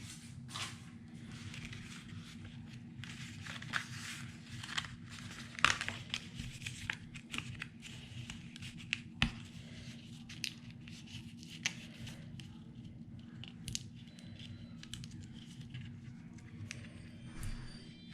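Die-cut cardstock pieces being popped out of their sheet and handled: irregular sharp paper snaps and light rustling of paper, over a steady low hum.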